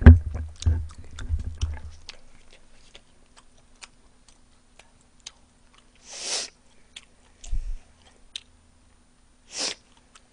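Close-miked biting and chewing of crispy fried chicken, with many small crunchy clicks. A low thump right at the start is the loudest sound, and two short hissing noises come about six and nine and a half seconds in.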